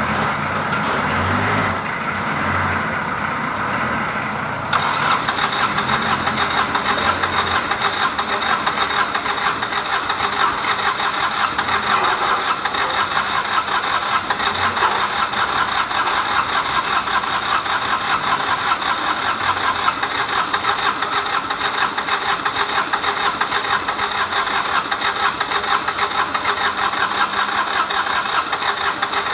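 Kubota D905 three-cylinder diesel engine running with a fast, even clatter. About five seconds in, the sound abruptly gets louder and sharper and stays that way.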